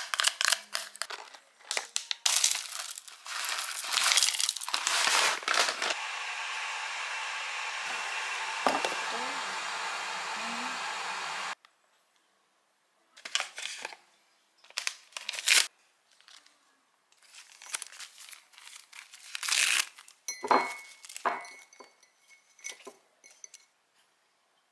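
Food-preparation handling noises: crinkling and rustling with quick clicks and knocks. After about six seconds a steady, even whirring noise runs for about five seconds and cuts off suddenly. Scattered clicks and light knocks follow.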